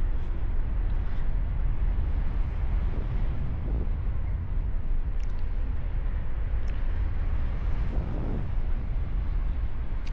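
Steady wind rushing over the camera microphone during a paraglider flight, a constant low rumble with a few faint ticks.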